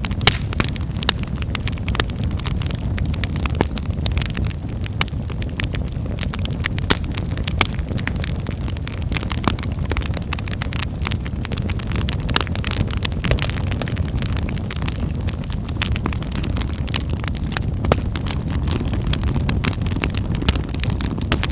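Wood fire in a fireplace crackling, with frequent irregular sharp pops and snaps over a steady low rumble of burning flames.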